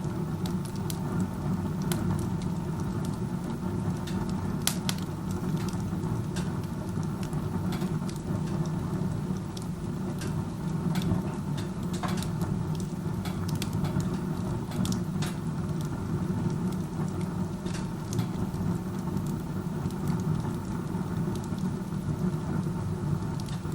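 Wood stove burning with its door open like a fireplace: a steady low rumble of air being drawn hard up the chimney, with scattered crackles and pops from the burning wood. The draft is very strong, which the owner takes as a sign of poor combustion efficiency.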